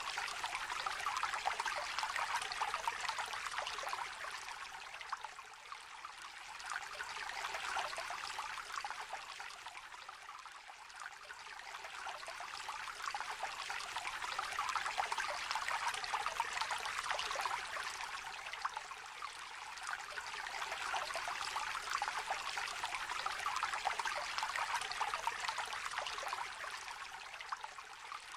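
Small river trickling and babbling, a steady bubbling splash whose level swells and eases slowly every several seconds.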